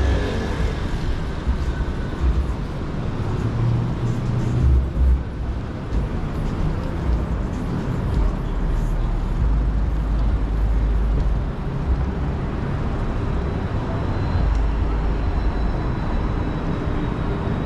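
City street ambience: road traffic running by, with a low engine rumble that swells and fades several times.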